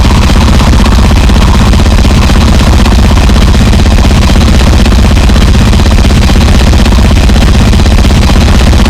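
Gore noise, a form of harsh noise music: a steady, heavily distorted wall of noise at full loudness, densest in a rumbling low end, with no breaks or pauses.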